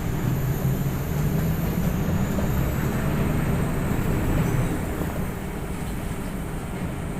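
Steady low engine rumble with a faint high-pitched whine above it, the noise of engines near the aircraft; it eases off slightly about five seconds in.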